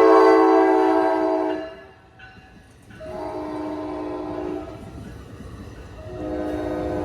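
Train's multi-chime air horn sounding a chord of several notes in three blasts: one already going that ends about a second and a half in, a shorter one from about three to four and a half seconds, and a third starting about six seconds in and still sounding at the end.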